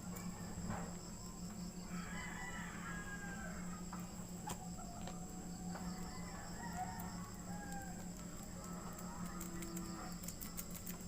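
Chickens calling in short groups of pitched calls, over a steady low hum, with a few sharp clicks near the end.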